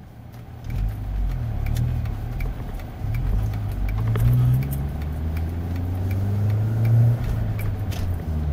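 1999 Audi A4 1.8T's turbocharged four-cylinder engine pulling hard under acceleration, its pitch rising twice as it climbs through the revs, then settling lower near the end, with road noise.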